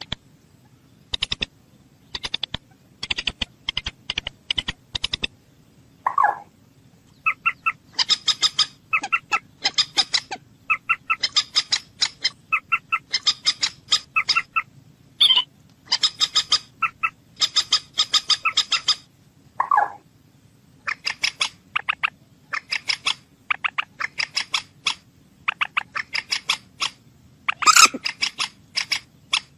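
Moorhen calling: rapid series of short, sharp, clicking calls repeated several times a second, broken by a lower, longer call about six seconds in and again about two-thirds of the way through.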